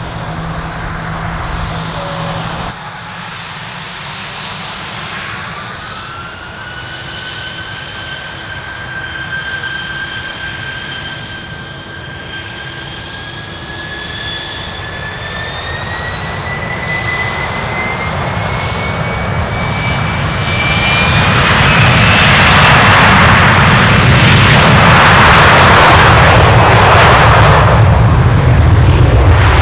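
Aircraft jet engines spooling up: a whine rises in pitch in steps, and about 21 seconds in it gives way to a much louder roar as the engines reach takeoff power. A different engine sound breaks off abruptly about three seconds in.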